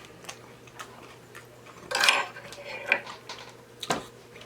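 Cutlery and dishes clattering: a longer clatter about two seconds in, a lighter clink near three seconds and a sharp click near four.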